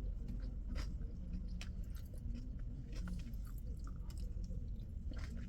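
A person chewing a mouthful of chicken over rice close to the microphone, with scattered faint soft clicks over a low steady hum.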